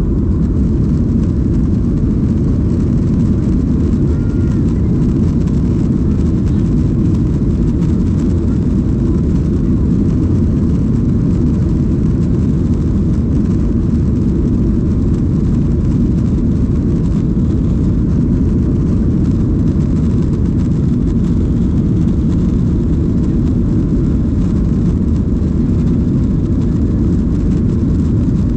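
Steady, loud, low drone inside the cabin of a Boeing 737-800: engine and airflow noise, holding even throughout.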